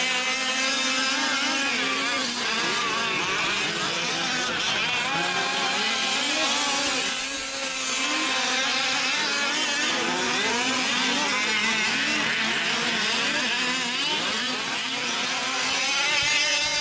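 Several 5th-scale RC trucks' small two-stroke gas engines racing together, their pitches rising and falling as the drivers work the throttle.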